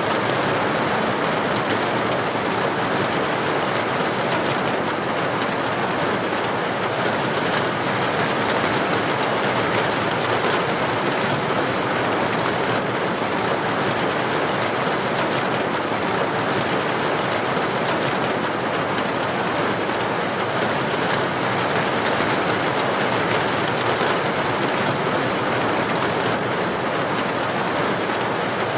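Heavy rain falling steadily on a street, an even, unbroken hiss with no thunderclap.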